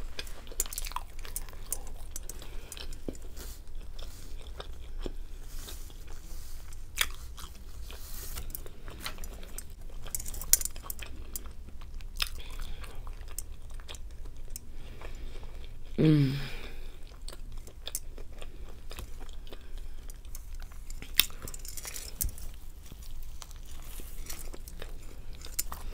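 A person chewing a bite of cheeseburger, close to the microphone: soft wet chewing with scattered mouth clicks and small crunches. About sixteen seconds in there is a brief hummed vocal sound.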